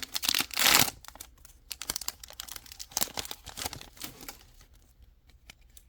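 Crinkling of a foil booster-pack wrapper, loudest about half a second in, followed by a run of light clicks and flicks as trading cards are slid through the hand one after another.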